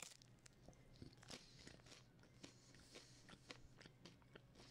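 A bite into a slice of pizza right at the start, then faint chewing with scattered, irregular small clicks.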